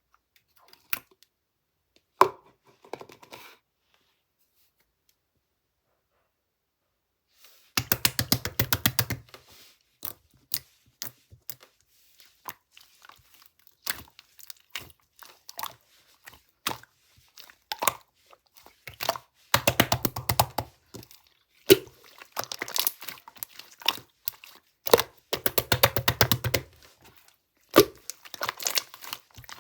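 Crackling, crunching clicks in dense bursts. A few lone clicks come first, then a pause of a few seconds, then near-continuous crackling from about eight seconds in, with three heavier bursts.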